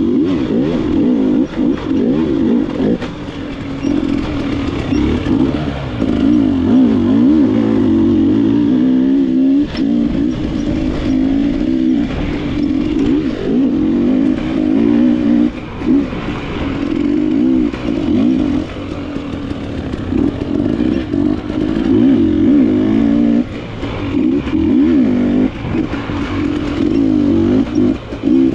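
Enduro dirt bike engine being ridden hard on a trail, the throttle opening and closing constantly so the pitch keeps rising and falling, with brief lulls every few seconds.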